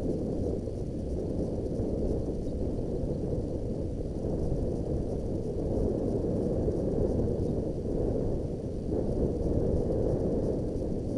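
Low, steady wind rumble buffeting the microphone of a moving motorbike, swelling and easing slightly.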